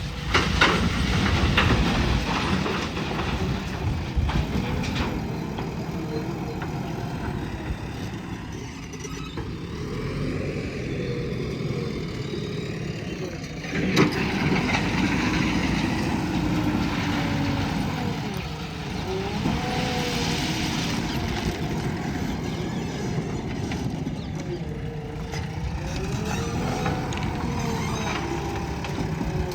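JCB 3DX Plus backhoe loader's diesel engine working, its pitch rising and falling as it is loaded and eased off, with a sharp clank about 14 seconds in.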